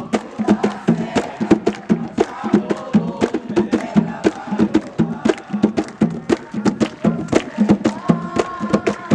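Afro-Brazilian ritual drumming: atabaque hand drums beating a fast, driving rhythm with a sharp clacking percussion, and a group of voices chanting over it.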